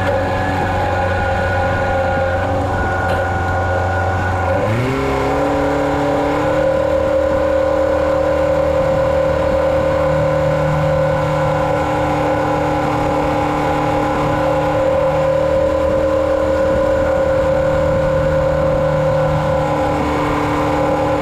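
Engine of the farm machinery spreading chicken litter, running steadily. About four and a half seconds in it speeds up, its pitch rising quickly, and it then holds at the higher speed.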